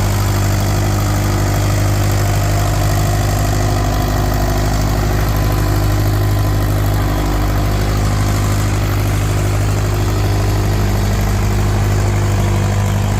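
Antique farm tractor engine running at a steady speed, a loud, even low drone that holds the same pitch throughout.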